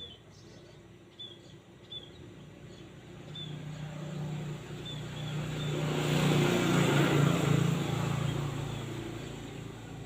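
A motor vehicle passes, its engine and road noise swelling to a peak about two-thirds of the way in and then fading. Small birds give short high chirps in the first half.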